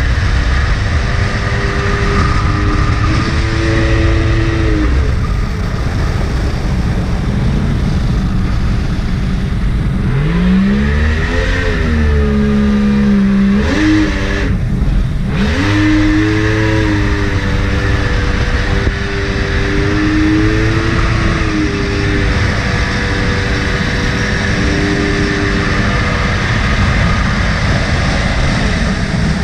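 Mini jet boat's Yamaha 1100 engine running under way. It holds a fairly even pitch, revs up sharply about ten seconds in, drops off briefly and then climbs again. A constant rushing noise lies beneath it.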